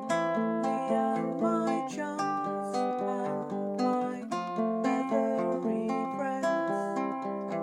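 Baritone ukulele strumming chords in a steady, even rhythm: an instrumental passage of a gentle song.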